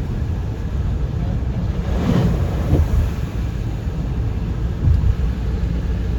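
Road and engine noise of a car driving, a steady low rumble, with a brief louder swell about two seconds in and a short thump near five seconds.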